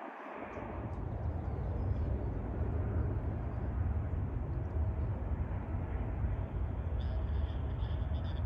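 Low, steady rumble of distant jet aircraft at an airport, fading in about half a second in.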